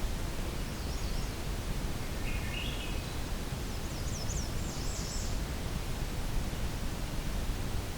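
Faint evening songbird song over steady low background noise. There is a short high call about a second in, a lower stepped phrase a little later, and a quick run of high up-and-down slurred notes around the middle.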